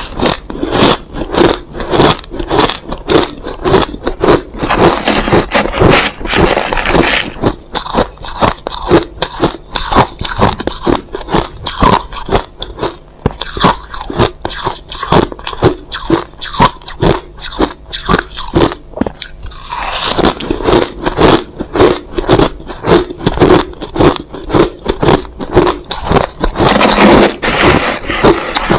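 Crushed ice being bitten and chewed: loud, rapid crunches, about three or four a second, with denser grinding stretches about a fifth of the way in, around two-thirds of the way through, and near the end.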